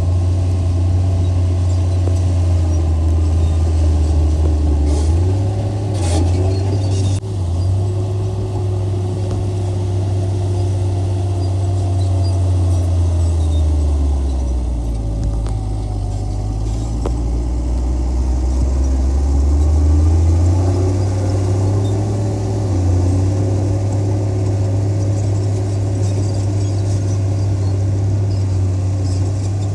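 Heavy earthmoving machine's diesel engine running loud and steady. Its pitch sinks from about halfway through and climbs back a few seconds later.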